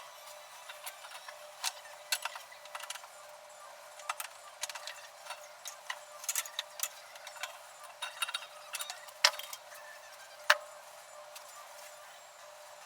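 Irregular light clicks and clinks of hand tools and small metal brake parts being handled, with two sharper knocks near the end.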